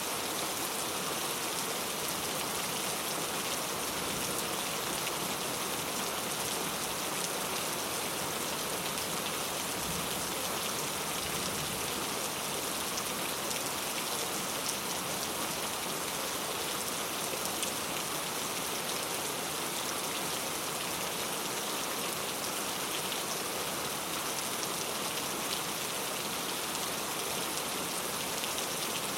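Steady heavy rain falling, a dense even hiss of countless drops.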